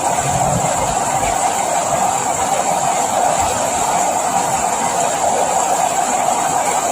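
Steady rain falling, a continuous even hiss without pause.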